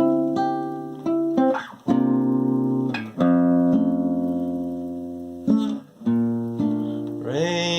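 Guitar playing a series of strummed chords, each struck and left to ring and fade, in an instrumental passage of a song accompaniment. A singing voice comes back in near the end.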